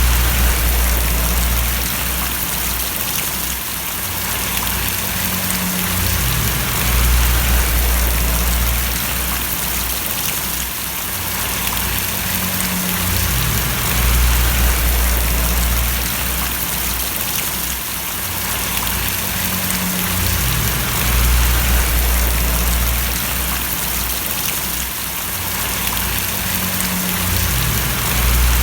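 Steady rain falling and splashing, an even hiss of drops, with a low rumble underneath that swells and fades about every seven seconds.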